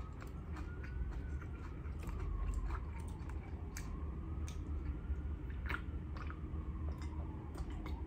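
Close-miked chewing of a mouthful of food, with a few sharp wet mouth clicks scattered through it.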